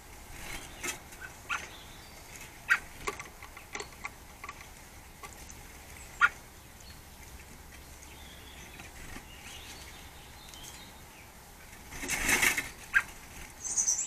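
Blue tits feeding at wire peanut and suet-ball feeders: scattered sharp taps and clicks from pecking and perching on the metal mesh, then a flurry of wingbeats near the end as a bird flies in.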